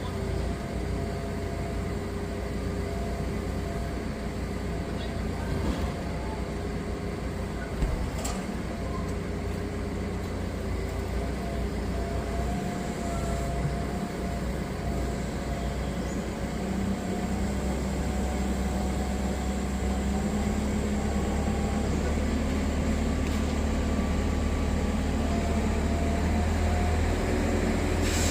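Diesel engine of a Manitou MRT 3570 rotating telehandler running steadily, with a steady whine over the engine note. The engine grows gradually louder from a little past halfway, as if working under more load during the lift.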